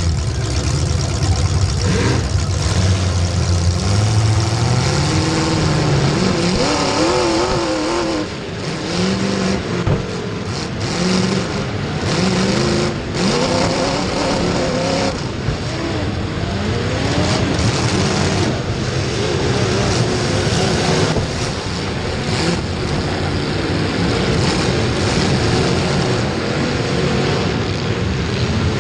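Race car engine under hard running, its pitch repeatedly climbing and dropping as it accelerates and lifts around the track, over a steady noisy bed of engine and track noise.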